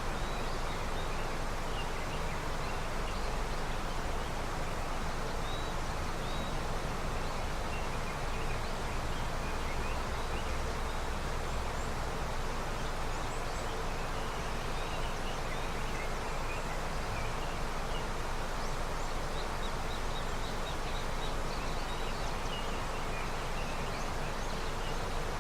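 A river in early snowmelt, its water rushing steadily and evenly. Faint, high, short chirps come and go over it.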